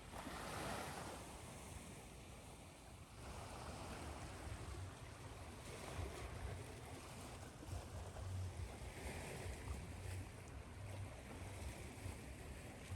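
Ocean surf washing in a steady hiss with a low rumble, layered with white noise. Surges swell up about half a second in and again from about three seconds in.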